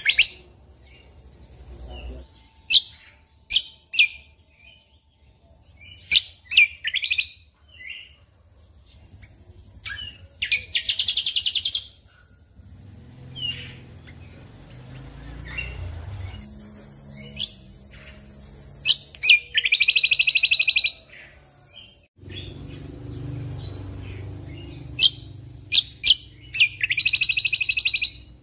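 Cucak kombo (kecial kombok) singing in full song: a run of short, sharp chirps and whistled notes broken by three buzzy, rattling trills of about a second and a half each.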